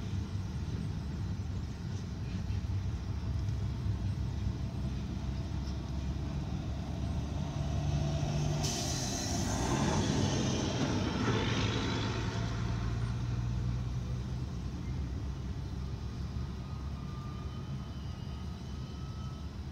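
Slow-moving freight train with a steady low diesel hum. About nine seconds in, a sudden loud hiss of air brakes sets in and dies away over about three seconds.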